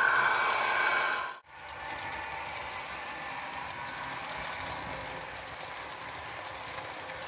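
Model railway train running on the track: a steady, even rattling whirr of the small motor and wheels on rails. Before it, a louder sound with several steady tones cuts off abruptly about a second and a half in.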